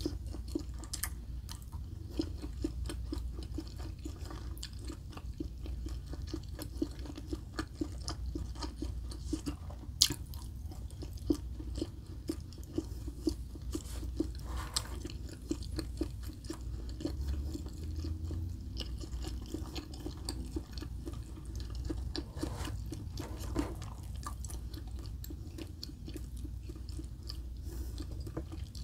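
A person chewing pan-fried chicken wontons close to the microphone, with a steady run of small wet mouth clicks and occasional crunches. One sharper click comes about ten seconds in.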